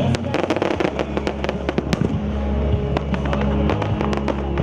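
Fireworks going off in quick succession, a dense run of sharp bangs and crackles several per second, over music playing underneath.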